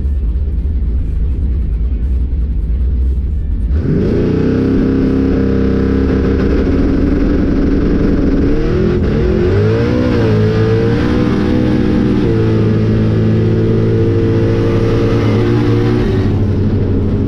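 A boosted drag car's engine rumbling at the line, then launching hard about four seconds in and running at full throttle for roughly twelve seconds. Near the middle the pitch dips and wavers as the tyres spin and the driver pedals the throttle, and it backs off near the end.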